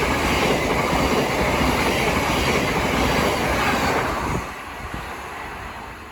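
Thameslink Class 700 electric multiple unit running past, a loud steady noise of wheels on rails that drops away sharply about four seconds in as the end of the train goes by, then fades.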